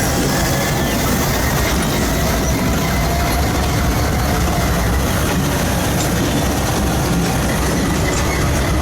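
Freight train rolling by on the rails: a steady rumble of wheels and cars, with a faint high squeal from the wheels.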